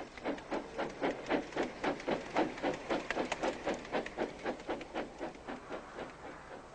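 Steam tram engine chuffing in a steady rhythm, about four puffs a second, growing louder about a second in and fading away near the end.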